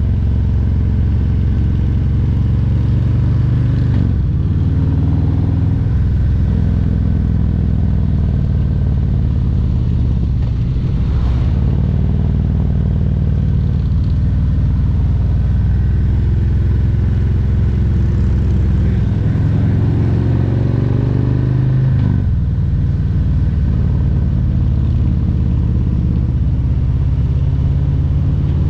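Harley-Davidson Road Glide Special's Milwaukee-Eight 114 V-twin running under way, its note shifting several times with throttle and gear changes. Past the middle the pitch climbs for a couple of seconds, then drops sharply.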